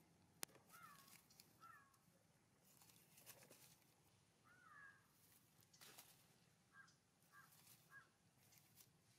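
Faint bird calls in a quiet outdoor background: a few short downward-sliding calls, then three quick chirps near the end. A sharp click about half a second in and a few soft rustles.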